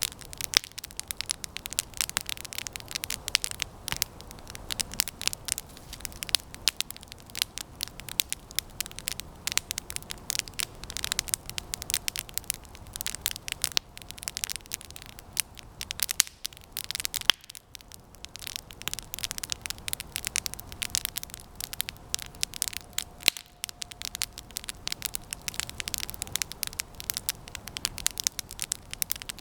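Campfire of resinous pine branches burning, crackling with dense, irregular sharp pops.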